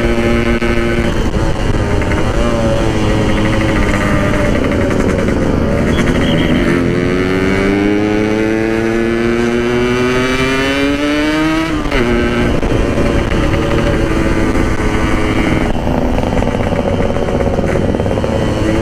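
Yamaha RX-King 135 cc single-cylinder two-stroke motorcycle being ridden: the engine note holds steady, climbs in pitch for several seconds as it accelerates, drops sharply about twelve seconds in, then holds steady again. The rider says it runs very 'wet' (rich), the setting not quite right.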